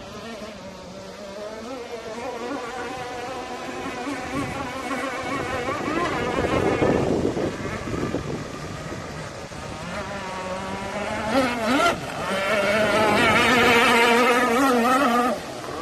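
Radio-controlled power boat's motor whining at speed, its pitch wavering as the boat runs and turns. It swells louder, sweeps sharply up in pitch about twelve seconds in, is loudest just after, then drops off suddenly near the end.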